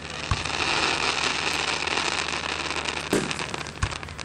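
Aerial fireworks display: a dense, steady crackle of bursting stars, with a deep boom about a third of a second in, a sharp bang a little after three seconds, and another low boom just after it.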